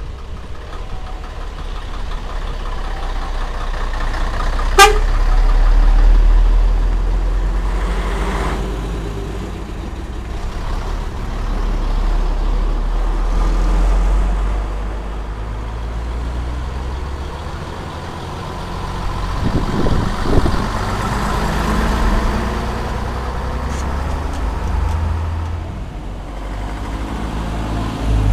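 Diesel engines of vintage Scania-Vabis Torpedo trucks running, the sound swelling and fading several times as the trucks pass. A single sharp click about five seconds in.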